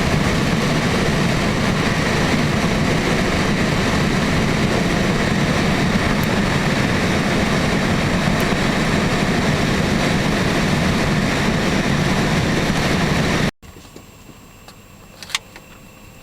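Steady vehicle engine and road noise, cutting off suddenly about thirteen seconds in. Two sharp clicks follow in the much quieter sound near the end.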